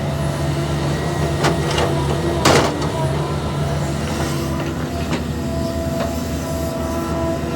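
Heavy diesel earthmoving machinery running steadily, with several sharp knocks and clanks over it, the loudest about two and a half seconds in.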